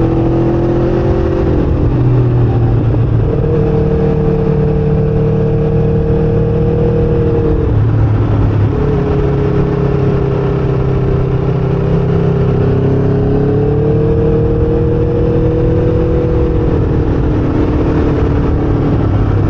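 Motorcycle engine running under way at road speed, over a steady rush of wind and road noise. The engine note dips about two seconds in and again about eight seconds in, then climbs gradually before levelling off.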